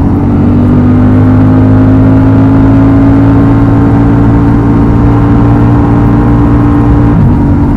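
Honda Transalp XL750's 755 cc parallel-twin engine under steady power, its note climbing slowly as the bike gains speed; a little after seven seconds in, the pitch drops sharply as it shifts up a gear.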